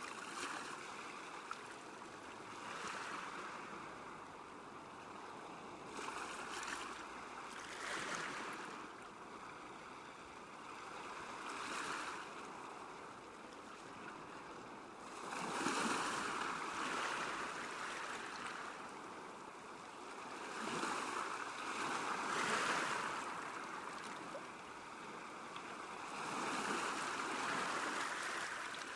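Small lake waves lapping at the shore: a soft wash of water that swells and fades every few seconds, with stronger swells in the second half.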